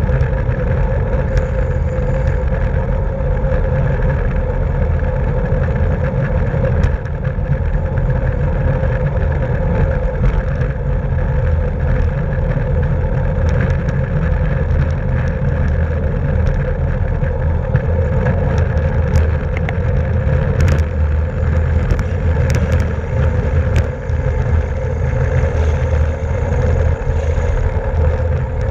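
Steady wind and road noise of a racing bicycle at speed, a loud rumble with a faint steady hum, broken by a few sharp clicks a little past the middle.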